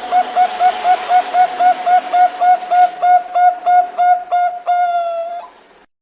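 Zebra dove (Bangkok-type perkutut) cooing: a quick run of short notes, about four a second, ending in one longer drawn-out note before cutting off abruptly. A steady hiss runs underneath.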